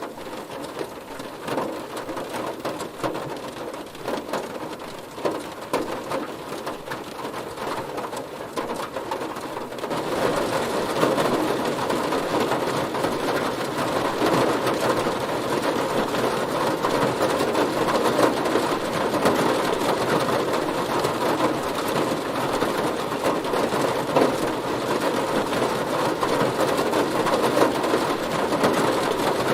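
Heavy rain falling on a car, a dense steady patter of drops that grows louder about ten seconds in.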